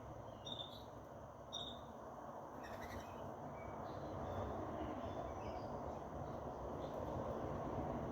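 Small birds chirping, short high chirps about a second apart, then fainter ones further on, over a steady low background hum. A brief cluster of clicks comes about three seconds in.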